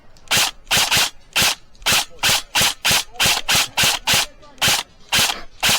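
Airsoft gun firing a rapid string of single shots, about three a second at uneven spacing, each a short sharp crack with a low thump.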